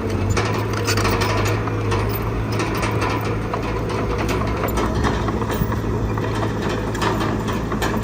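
Diesel engine of heavy earthmoving machinery running steadily, with frequent small knocks and rattles over it.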